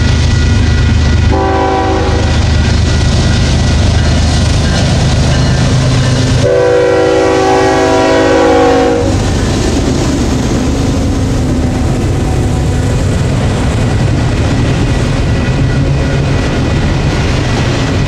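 Union Pacific diesel locomotives pulling an autorack freight train past, with a steady low engine rumble. The locomotive's air horn sounds a chord of several notes, a short blast about a second and a half in and a longer one of about two and a half seconds near the middle. The autorack cars then roll by with their wheels clacking on the rails.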